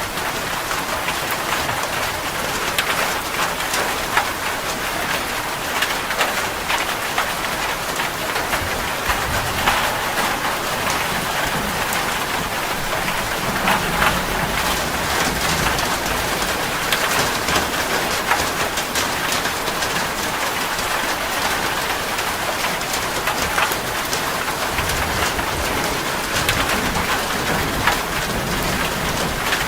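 Heavy rain drumming on a metal roof, a dense steady patter of drops, with low thunder rumbling now and then.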